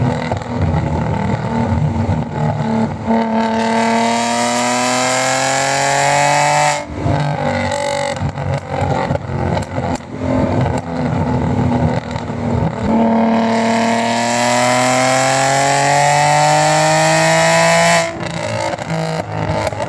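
Straight-piped exhaust of an Audi A4 B6 3.0-litre V6 under two pulls. Each is a rising note lasting four to five seconds that cuts off suddenly, with rougher, uneven running between them.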